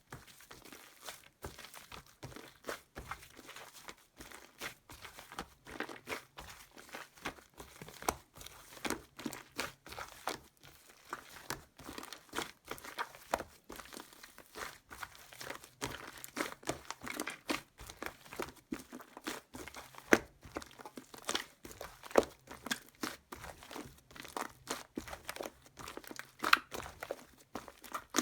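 Close-up crinkling and crackling from hands working crinkly material: a dense, irregular run of small crunches and clicks, with sharper snaps now and then.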